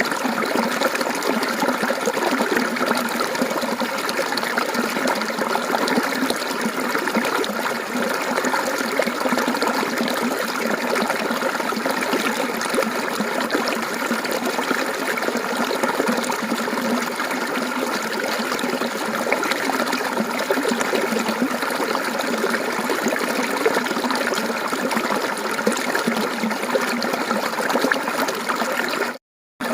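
Mountain stream water flowing and babbling steadily, a calm, even rush. Near the end it cuts out to silence for about half a second.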